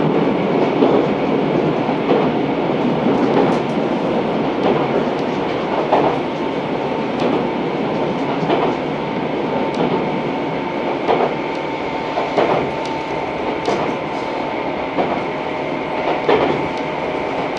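Tobu 634-series electric train heard from inside the car while running: the wheels clack over rail joints at an even pace, about one click every second and a quarter, over a steady running rumble. A faint steady whine comes in partway through.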